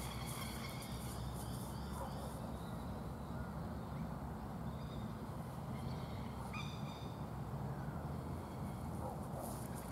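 Birds calling: a call in the first two seconds, a few short calls near the middle and a sharp call about two-thirds through, over a steady low rumble.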